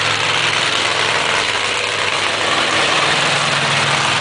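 Monster truck engine running steadily and loudly, a dense even engine noise with a low engine note underneath.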